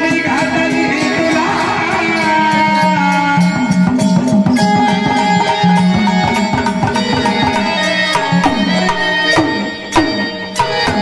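Instrumental interlude of Marathi devotional folk music: a quick, steady tabla-type hand-drum rhythm under a held, shifting melody, with a brief drop in loudness near the end.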